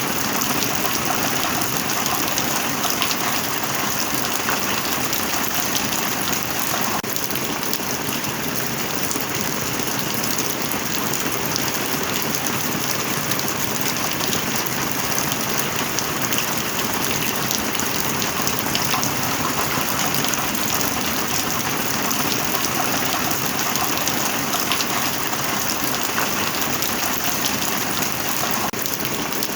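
Heavy rain falling steadily, with a dense patter of individual drops hitting a surface.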